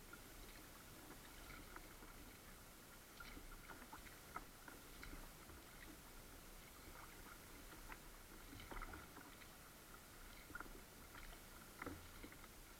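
Faint sounds of a kayak being paddled: small, irregular splashes and drips of water from the paddle and against the hull over a steady hiss.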